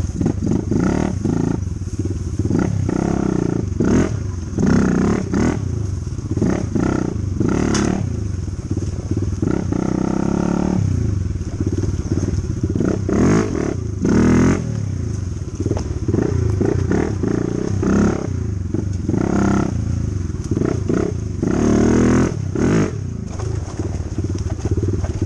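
Dirt bike engine running while riding, its revs repeatedly rising and falling, with short clattering knocks now and then.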